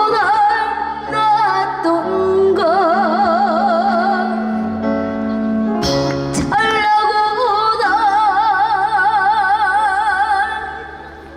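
A singer holding long notes with wide vibrato over a sustained backing track, with a couple of sharp percussive hits about six seconds in; the music fades away near the end.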